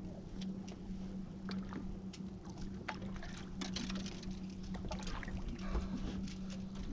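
Bass boat's electric trolling motor humming steadily, with scattered sharp clicks and light water splashing.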